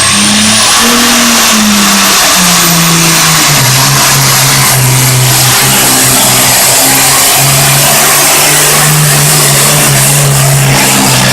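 Turbocharged Super Farm pulling tractor's diesel engine running flat out, very loud, with a high turbocharger whine that rises over the first second and then holds. The engine note falls about three and a half seconds in.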